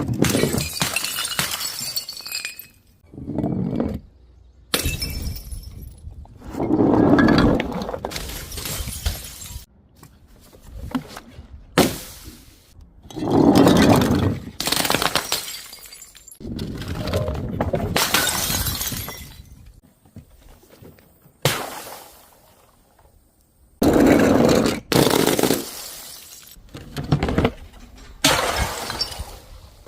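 Glass bottles and jars shattering one after another, about a dozen times. Each is a sudden crash followed by the tinkle of pieces scattering and settling.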